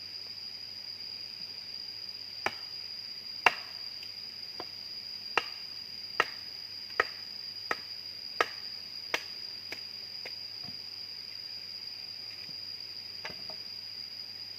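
A series of about ten sharp chopping strikes, fairly evenly spaced, starting a couple of seconds in and stopping after about ten seconds. A steady high-pitched insect drone runs underneath.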